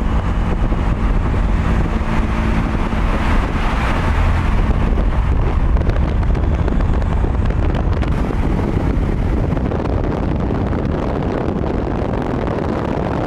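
Car driving at a steady pace: a steady engine note under heavy wind and road noise buffeting the microphone.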